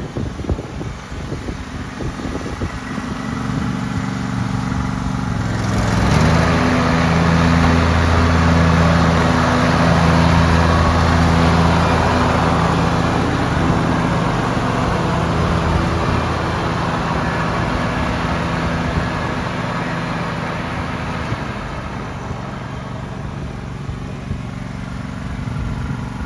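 John Deere LT180 lawn tractor engine running. It picks up about three seconds in and steps up to a louder, fuller run about six seconds in, then slowly fades back to a lower steady run over the last ten seconds or so.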